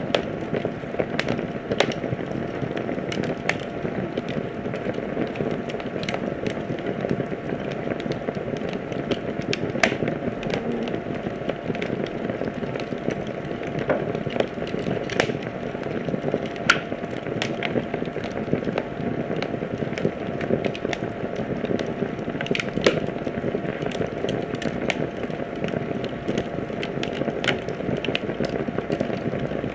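Wood fire burning in a fireplace, crackling steadily with frequent sharp irregular pops over a low rumbling hiss of the flames.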